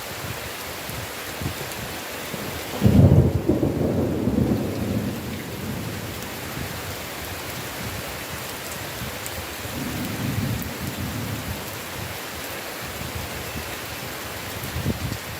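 Steady heavy rain with a loud clap of thunder about three seconds in that rolls away over the next few seconds, then a softer rumble of thunder around ten seconds in.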